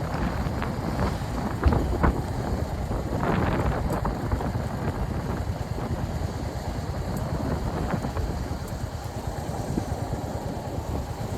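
Royal Enfield Hunter 350's single-cylinder engine running as the motorcycle rides along, with wind on the microphone.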